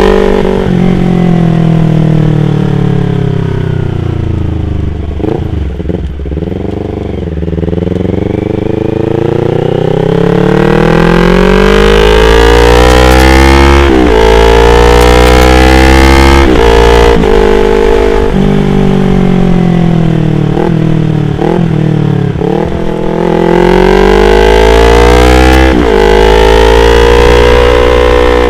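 Yamaha R25's parallel-twin engine under way, its note climbing and falling repeatedly as the rider accelerates and eases off, with brief sharp breaks at the gear changes.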